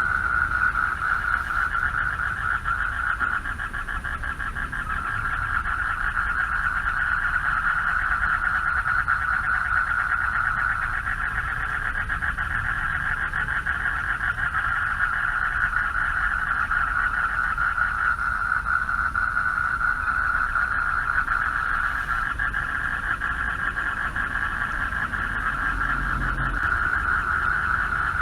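A chorus of many male frogs calling for mates from a pond: a dense, continuous mass of rapidly pulsing calls, with a low rumble underneath.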